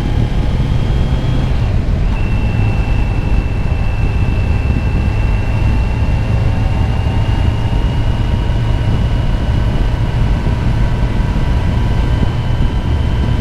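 Motorcycle riding at speed, heard from the rider's helmet microphone: the engine runs steadily under heavy wind rumble. About two seconds in the engine note breaks briefly and comes back a little lower, as at a gear change, then climbs slowly as the bike gathers speed.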